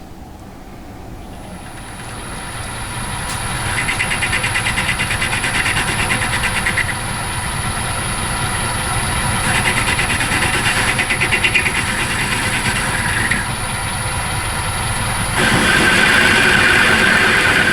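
Myford Super 7B lathe starting up and running with a steady high whine. Three spells of cutting noise follow as the tool takes passes along the bush to bring its outside diameter down, and the last pass is the loudest.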